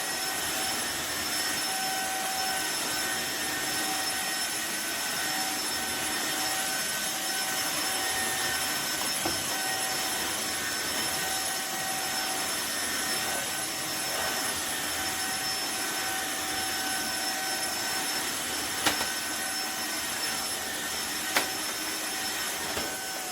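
Cordless wet-dry floor vacuum (Tineco iFLOOR 3 Breeze) running steadily: a constant rushing hiss with a steady high motor whine. Two sharp clicks come near the end.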